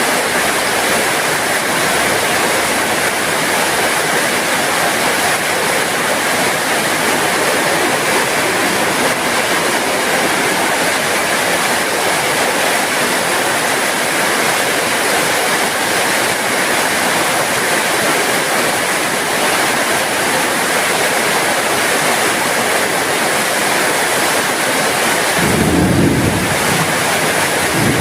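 Steady rain falling, an even hiss with no let-up, and a short low rumble near the end.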